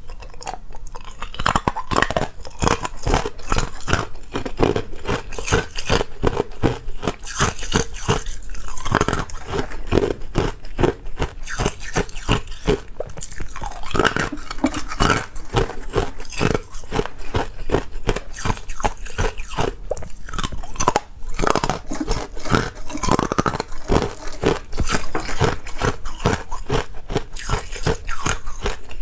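A person biting and chewing ice, a dense run of sharp crunches that goes on without a break.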